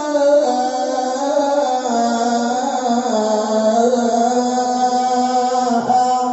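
Male Qur'an reciter's voice drawing out one long, wavering melodic note in tilawah style, with no break for breath.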